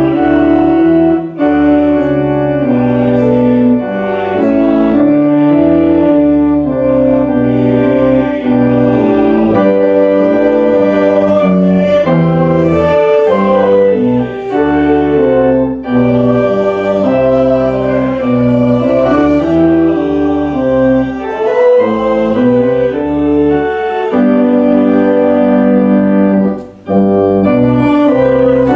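Instrumental church music: slow, held chords on what sounds like an organ, changing every second or two, with a brief break near the end.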